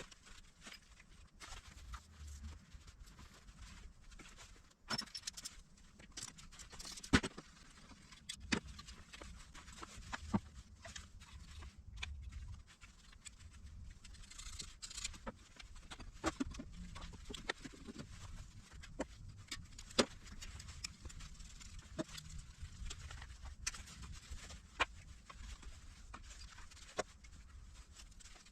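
Irregular clicks and light knocks of hand tools working on a car engine during teardown, with louder knocks about seven and about twenty seconds in.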